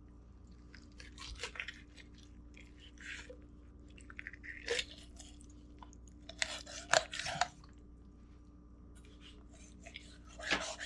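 Knife cutting up a raw whole chicken: irregular crunching and crackling as the blade goes through skin, joints and bone, in several short spells, the loudest about seven seconds in.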